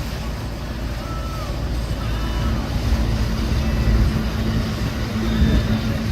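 Boat engines running as a boat goes by: a low rumble with a steady hum that grows louder about halfway through.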